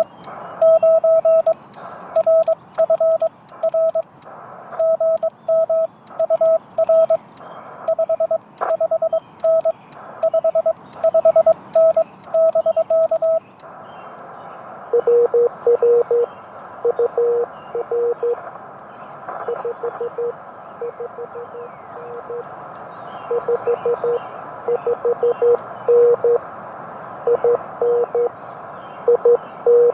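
Morse code from a Yaesu FT-891 transceiver. For the first half a higher keyed tone, the sidetone, is sent with sharp clicks from the key. About halfway a background hiss of band noise comes up and a lower-pitched Morse signal is heard, a station answering.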